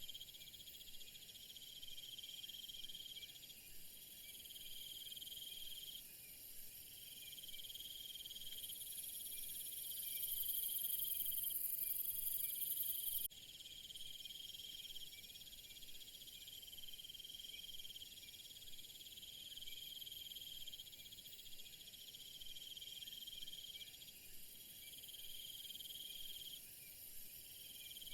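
A chorus of crickets trilling steadily. A lower trill comes and goes in bouts of a few seconds. A very shrill high trill grows louder about a third of the way in and cuts off suddenly.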